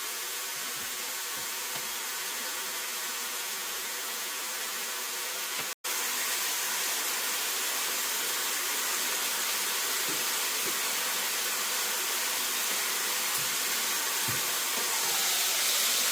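Breaded chicken strips frying in hot oil, a steady sizzle with a brief dropout about six seconds in.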